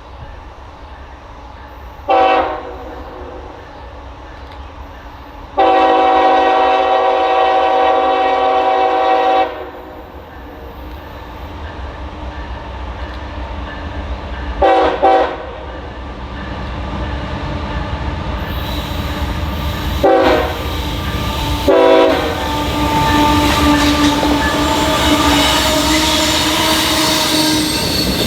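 Approaching train's locomotive horn sounding a series of blasts: a brief toot, one long blast of about four seconds, a quick double toot, then two more short blasts. Under the horn, the rumble of the train grows steadily louder as it draws near.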